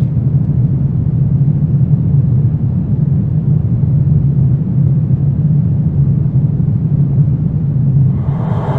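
Steady low rumbling drone of a horror ambience track. About eight seconds in, a layer of several held pitched tones fades in over it.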